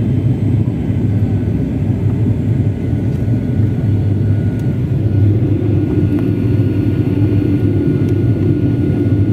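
Airliner cabin noise heard from inside the passenger cabin: a steady, loud low rumble of engines and airflow, with a faint high steady whine.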